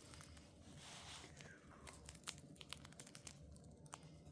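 Cockatiels nibbling popcorn: faint, scattered crunching clicks of beaks breaking up the popcorn.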